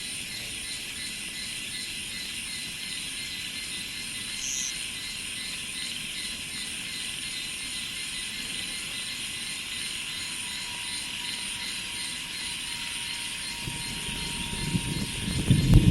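Steady high insect chorus with an even pulsing, and a short bird chirp about a third of the way in. Near the end, a low rumble swells as a train approaches.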